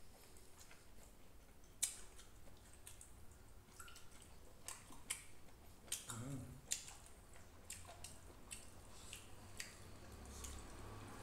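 Close eating sounds: scattered wet mouth clicks and smacks of chewing, faint, with a short low hum about six seconds in.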